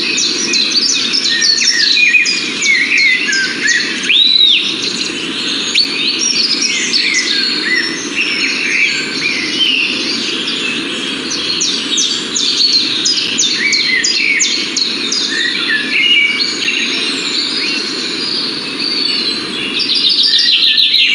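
Many small birds chirping and twittering at once in quick, overlapping calls, with one arched whistle about four seconds in, over a steady low background noise.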